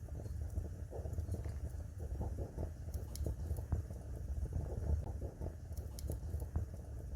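Wood fire burning in a fireplace: a steady low rumble of the flames with irregular crackling and occasional sharp pops of burning wood.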